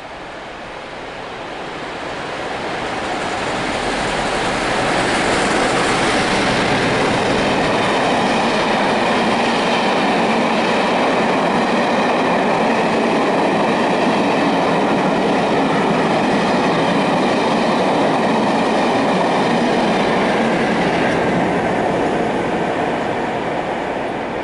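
Class 47 diesel locomotives, Sulzer V12-engined, hauling a rake of coaches through a station without stopping. The sound builds over the first few seconds as the train approaches. It holds as a steady rumble of engines and wheels on rails for about fifteen seconds while the coaches pass, then fades near the end.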